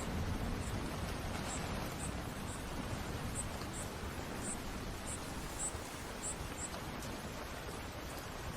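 Steady heavy rain: a dense, even hiss with a low rumble underneath.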